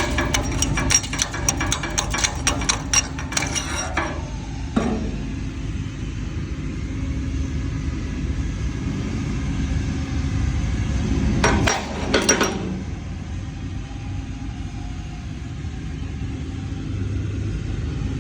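Flux-cored CO2 arc welding: a dense, rapid crackle of the arc for about the first four seconds, then a steady low hum and rumble, with a short burst of crackle again about twelve seconds in.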